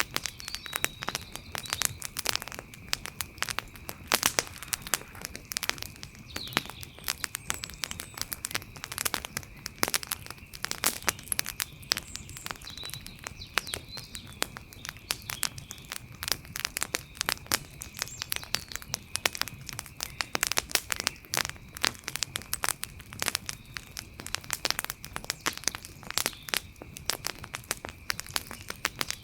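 Wood fire crackling: dense, irregular snaps and pops throughout. Behind it runs a steady high-pitched tone, with faint short chirps now and then.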